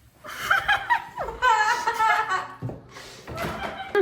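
People laughing, with high wavering squeals, through the first two and a half seconds, then quieter laughter near the end.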